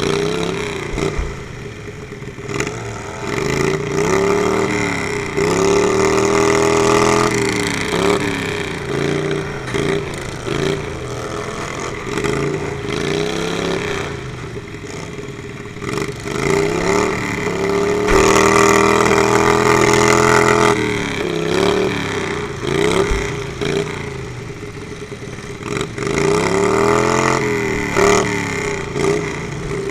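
Riding-lawnmower engines revving up and dropping back over and over, several at once and overlapping, loud throughout with bigger swells of revving every several seconds.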